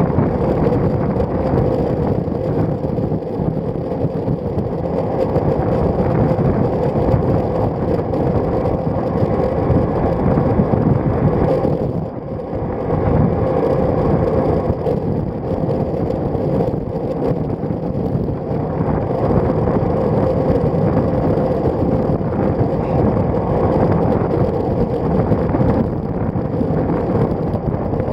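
Steady wind rush and road noise on the microphone of an action camera mounted on a road bicycle's stem while riding, dipping briefly about twelve seconds in.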